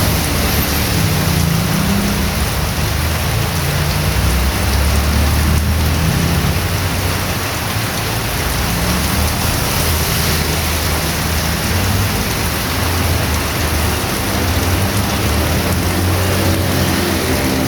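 Heavy rain pouring steadily as a loud, even hiss, with a low rumble underneath. Near the end a motor vehicle's engine comes in, rising in pitch.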